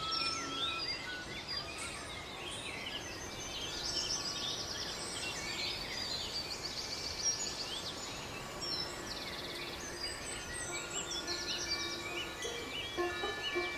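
Many small birds chirping and trilling in quick overlapping calls over a steady background hiss, with faint sustained music notes coming in near the end.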